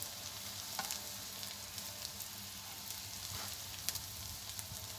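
Shami kebab patties shallow-frying in oil in a pan over a gas burner: a steady sizzle with a few scattered pops and crackles.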